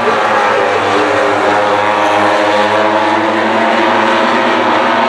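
Racing motorcycle engines running at high revs on track, a loud continuous engine note whose pitch drifts slightly as the bikes go by.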